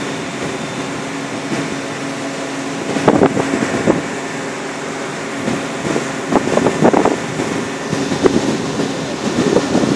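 A shrimp boat's engine running steadily with a low, even drone, with wind buffeting the microphone in a few louder gusts.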